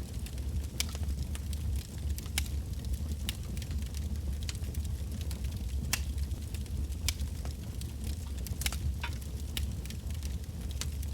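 Wood campfire burning with irregular sharp crackles and pops over a steady low rumble of the flames.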